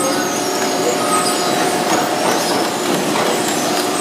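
American Baler industrial baler and its feed conveyor running: a steady, even machine noise with a constant whine held over it.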